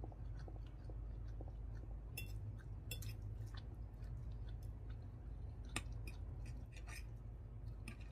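Close-miked chewing of a mouthful of kimchi ramen noodles, a run of soft wet clicks and smacks. A few sharper clicks stand out, one of the clearest near the end, as a metal fork twirls noodles against a ceramic plate.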